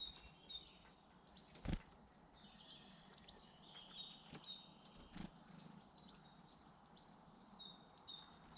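Small garden birds chirping and calling in short, high notes, heard through the whole stretch. Two dull knocks come in among them, about two seconds in and about five seconds in.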